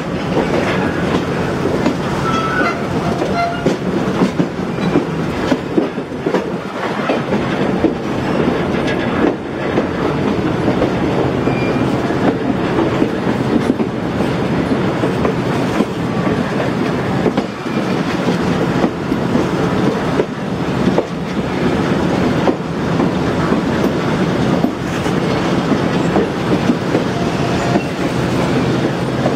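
Passenger train coach rolling along the track, heard from an open coach window: a steady rumble of wheels on rail with scattered clicks.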